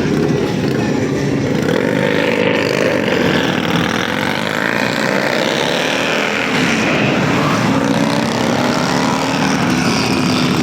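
Motor vehicle engines running steadily in traffic, with several engine tones slowly rising and falling.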